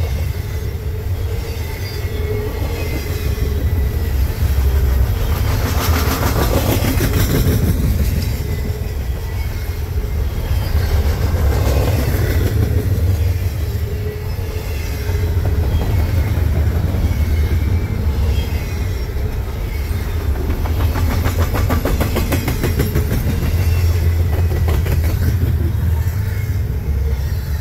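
Loaded double-stack intermodal container cars rolling past at speed: a steady heavy rumble, with two stretches of fast clickety-clack as wheel sets pass.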